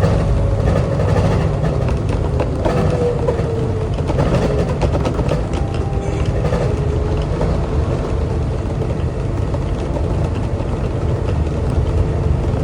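Singapore LRT train, a rubber-tyred automated people mover, running along its guideway: a steady low rumble with a thin motor whine that dips slightly in pitch a few seconds in, then holds steady.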